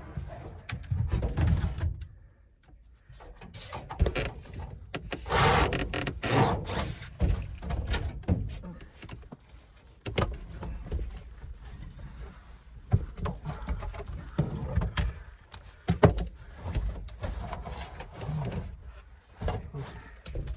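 Irregular knocks, clunks and scraping of equipment being handled and pulled at during repair work, with several sharp knocks spread through.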